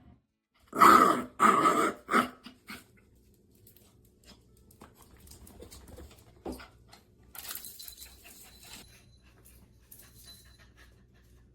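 A dog barks loudly about three times about a second in, then only fainter, scattered sounds follow.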